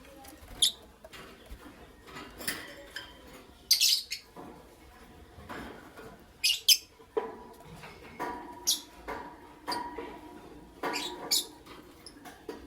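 Lovebirds chirping: short, sharp, high-pitched chirps at irregular intervals, with lower chattering calls mixed in through the second half.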